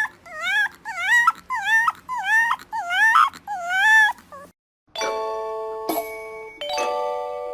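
A dog whining in a rapid series of high, wavering calls, about two a second, that stop about four and a half seconds in. After a short gap, bright chime-like notes ring out several times.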